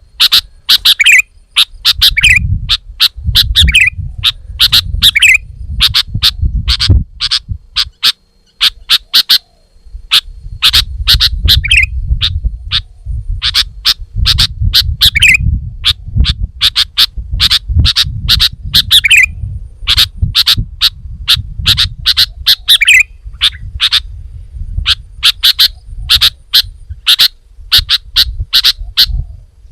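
Sooty-headed bulbul calling in a rapid, chattering run of short sharp chirps, broken every couple of seconds by a lower curving note, over a low rumble.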